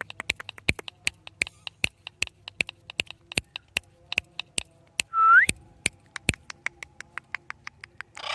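Pet parrot clicking repeatedly, a few uneven clicks a second, with one short, loud rising whistle about five seconds in and a brief harsh squawk-like burst at the very end.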